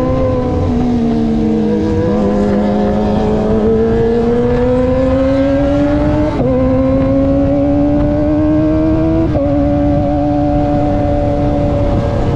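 Kawasaki ZX-25R's 249 cc inline-four engine through an aftermarket racing exhaust, under way. The revs sag and then climb steadily, with two quick upshifts about six and nine seconds in, and then hold nearly steady.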